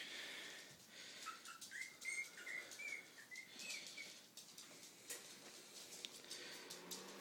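Puppies giving a run of short, high squeaks for a couple of seconds, faint, with scattered clicks.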